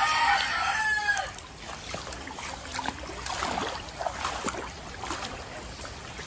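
A rooster crowing, the crow ending about a second in, followed by fainter scattered sounds.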